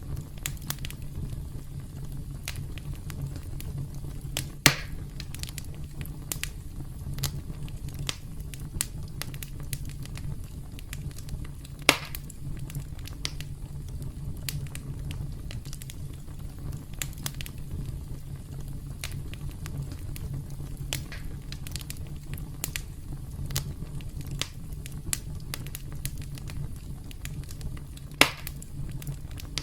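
Campfire crackling: a steady low rumble of burning wood with frequent small crackles and three louder pops spread through it.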